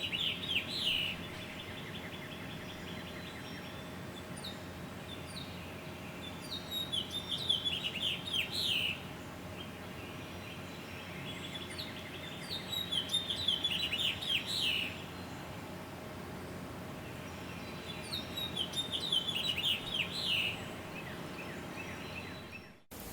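A songbird singing the same short song four times, about every six seconds: each song is a quick run of notes that falls in pitch and lasts about two seconds. A steady low background hum runs underneath. Near the end the sound briefly drops out and gives way to a plain steady hiss.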